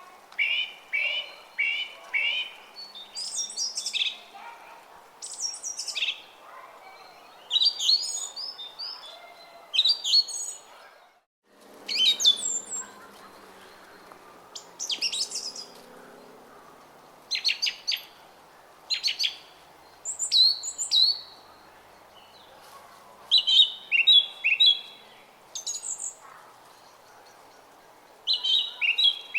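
Small songbirds chirping in repeated short, quick phrases over the steady murmur of a brook. The sound cuts out for a moment about eleven seconds in.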